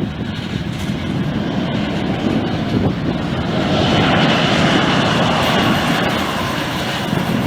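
Jet airliner engines heard as a broad rushing noise that swells about four seconds in, with a faint high whine on top, as the plane passes.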